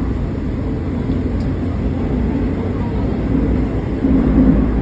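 Train running, heard from inside the carriage: a steady low rumble that swells slightly near the end.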